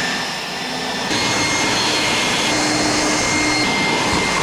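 Motor-driven bike-wash equipment running steadily: a loud rushing hiss with a thin high whine that steps up in pitch about a second in.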